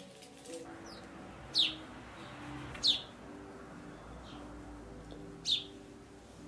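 Songbird chirping outside: three sharp, high chirps, each falling quickly in pitch and spaced a second or two apart, with fainter chirps between them. Faint low sustained notes sit underneath.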